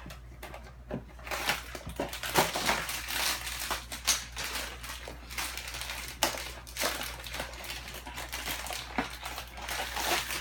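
Blind-bag packaging being torn open and handled: a plastic wrapper crinkling and crackling in irregular bursts, with sharp clicks and taps.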